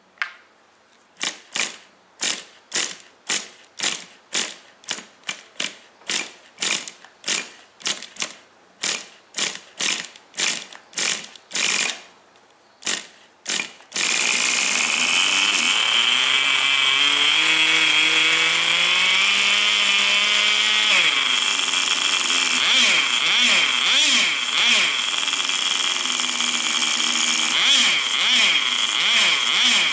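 Tamiya TGS 1/10 nitro RC car's small glow engine being cranked in about twenty short strokes, roughly two a second, while flooded from fuel primed straight into the carburettor. About fourteen seconds in it catches and runs with a high buzz, revving up in pitch, dropping back, then running on with a wavering pitch.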